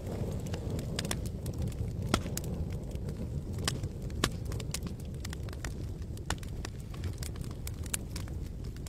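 Campfire burning: irregular sharp crackles and pops from the burning wood over a steady low rumble, the loudest pop about two seconds in.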